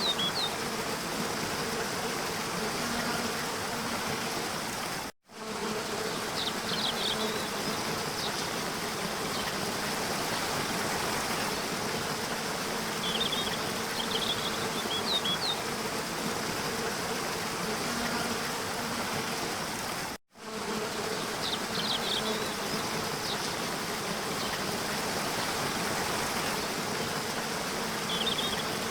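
Waterfall's steady rushing water, with a faint steady hum and brief high chirps a few times. The sound cuts out abruptly twice, about five seconds in and again about fifteen seconds later, where the looped recording joins.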